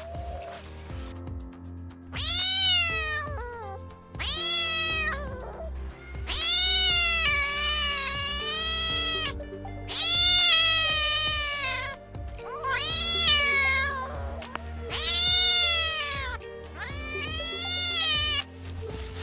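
Cat meowing repeatedly: about seven drawn-out, high meows, each rising then falling in pitch, some held for two to three seconds, over background music.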